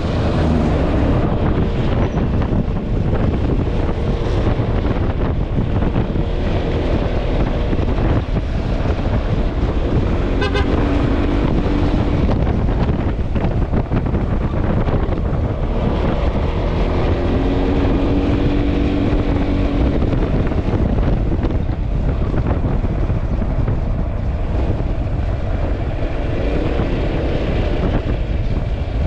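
Wind buffeting the microphone over the engine and road noise of a Yamaha XMAX scooter being ridden. Two steady tones of a second or two each stand out, about ten seconds in and again near eighteen seconds.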